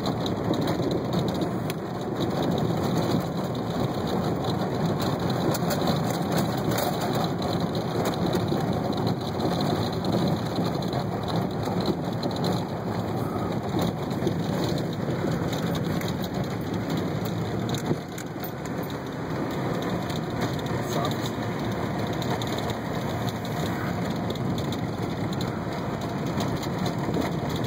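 Rain drumming on a Jeep Cherokee as it drives off-road, mixed with a steady rumble of engine and tyres; the noise eases briefly about eighteen seconds in.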